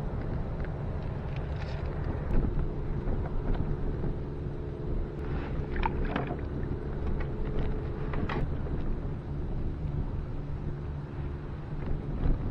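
Yamaha 2-horsepower outboard motor running at a steady speed, pushing a small boat, with a few short knocks over it.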